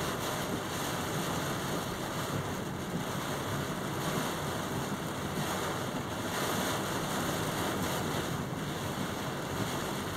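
Strong typhoon wind blowing in a steady, dense rush, buffeting the microphone.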